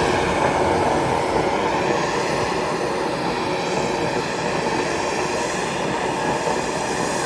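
Steam train running, a steady, loud mechanical noise with a faint ringing tone over it.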